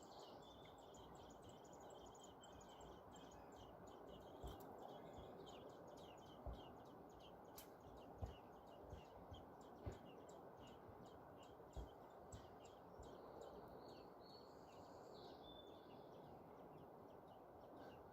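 Faint birds chirping: a long run of short, quickly repeated high calls with a few held notes, over quiet outdoor background noise, broken by a handful of soft low thumps.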